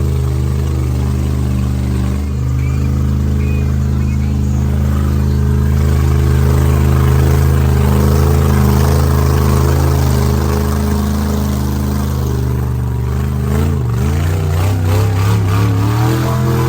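A large vehicle engine running hard at high, steady revs, its pitch dipping and climbing back a few times near the end.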